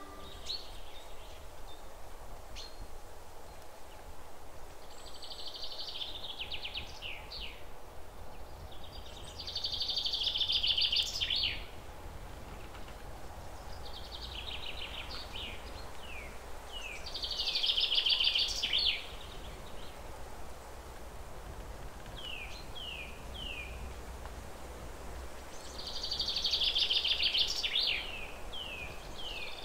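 A songbird singing a repeated phrase of buzzy trills followed by short down-slurred notes, roughly every four seconds, the loudest phrases coming about every eight seconds. A low, steady outdoor rumble lies underneath.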